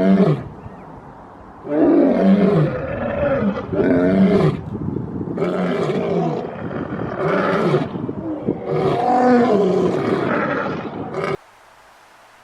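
A large wild animal roaring over and over: a string of loud, pitched roars of about a second each, stopping suddenly near the end.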